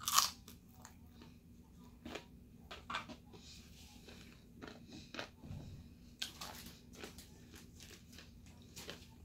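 A person biting and chewing crispy fried food: one loud crunch of the bite right at the start, then scattered smaller crunches and mouth clicks while chewing.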